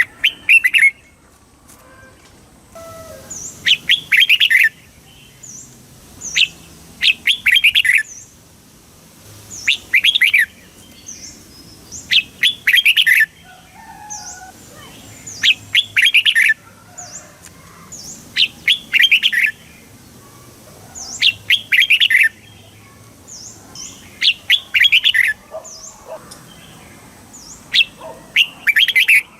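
Red-whiskered bulbul singing: short, bright warbled phrases of about a second each, repeated roughly every three seconds, with faint thin high chirps between them.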